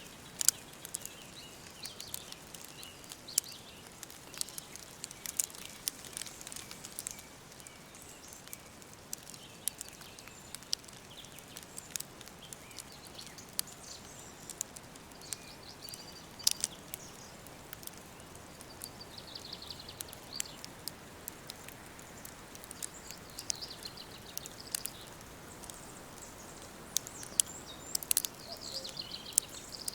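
Woodland ambience: a soft steady hiss with frequent sharp, irregular crackles and ticks, and faint bird calls, most noticeable about two-thirds of the way in and near the end.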